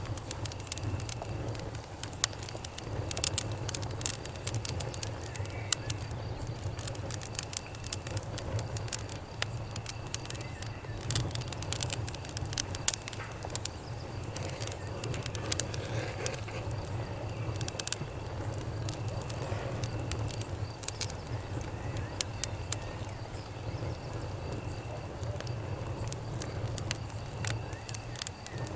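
Campfire crackling, with irregular sharp pops and snaps scattered throughout over a steady low rumble. Crickets chirp faintly in short repeated trills behind it.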